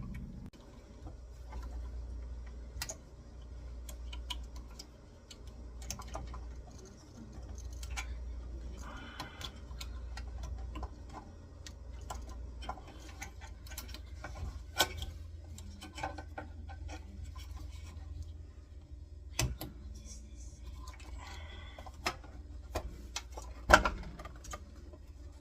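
Scattered clicks and light taps of the espresso machine's parts being handled and fitted together during reassembly, with a sharper knock about a second and a half before the end.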